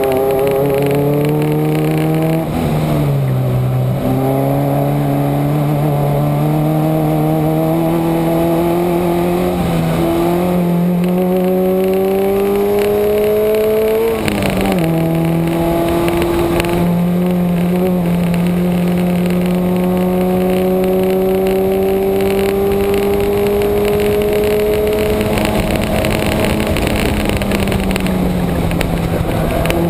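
A Subaru's engine pulling hard under full throttle around a racetrack. Its note climbs slowly through long stretches in gear, drops sharply at shifts about 3, 4 and 14 seconds in, and falls away near the end as the car slows, over steady road and wind noise.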